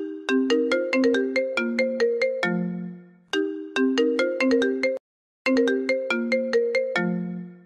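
iPhone ringtone playing on loop: a quick melody of plucked, mallet-like notes, each phrase ending on a low note that fades. About five seconds in the tune cuts out abruptly, and after half a second of silence it starts again.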